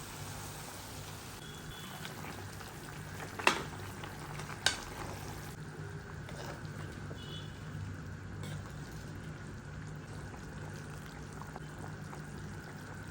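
Food frying in a pan: a steady sizzling hiss over a low hum, broken by two sharp knocks about a second apart near the middle.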